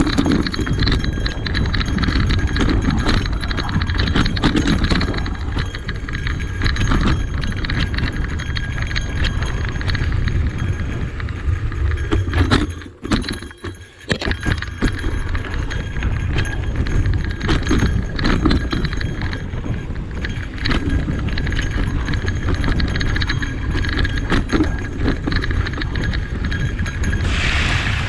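Cube Reaction Hybrid EX 625 electric mountain bike rattling and clattering over a rough trail, with a steady low rumble from the tyres and ride. The sound drops away for about a second around the middle, then the clatter resumes.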